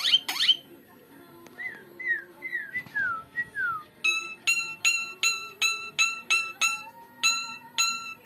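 Javan myna calling: a few loud sweeping calls that end in the first half-second, then a run of five short falling whistles, then an even series of clipped, ringing notes about two a second.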